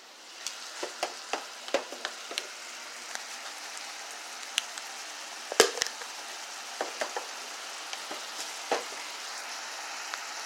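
Jumbo shrimp sizzling in butter and olive oil in a skillet, the sizzle starting up and slowly growing louder. Scattered clicks and knocks of the pan and utensil come through as they are stirred, the sharpest a little past halfway.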